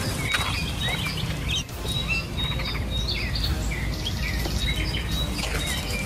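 A bird giving a rapid series of short, chirping alarm calls while mobbing a snake, with a thin steady high tone and a low rumble underneath.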